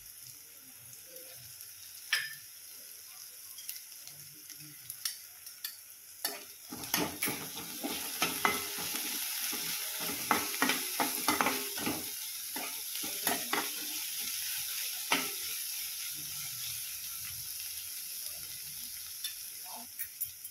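Chopped onion, garlic and green chilli sizzling in oil in a kadhai, with a spoon scraping and knocking against the pan as the mix is stirred. The stirring strokes come thickest in the middle of the stretch and thin out toward the end.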